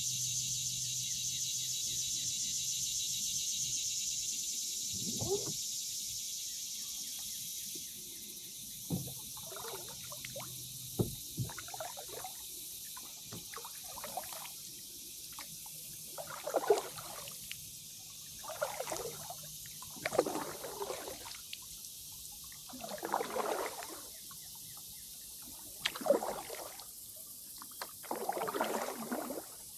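Kayak paddle strokes: the blades dip and pull through the water every two to three seconds, with splashing and dripping off the blades, growing stronger in the second half. A steady high-pitched hiss fills the first eight seconds or so.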